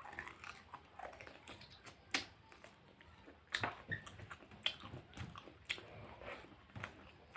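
Close-miked chewing and biting of food, with irregular wet clicks and smacks of the mouth and teeth.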